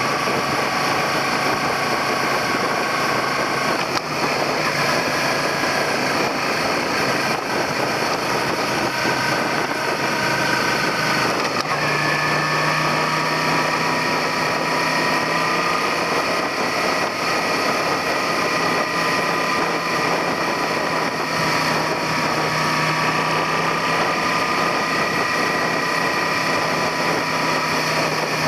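Suzuki SV400's V-twin engine running while the motorcycle is ridden, under steady wind and road noise. The engine note steps to a new pitch about four seconds in and again around twelve seconds, then holds fairly steady with slight rises and falls.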